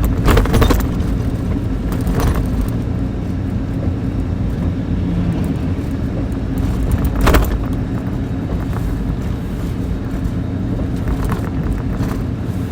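Truck on the move: a steady low engine and road rumble, with a few short knocks or rattles, the sharpest about seven seconds in.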